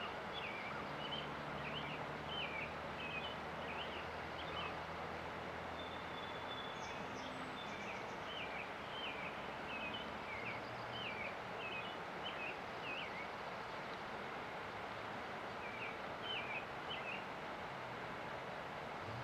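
River water running steadily while a small songbird sings quick phrases of rapid chirps, three bursts of song with pauses between. A faint low steady hum, like distant traffic, sits underneath.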